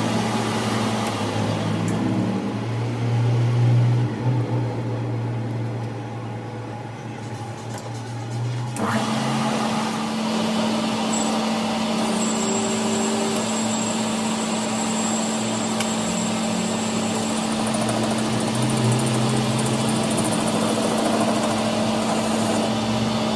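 An engine running steadily, its hum shifting to a higher note about nine seconds in.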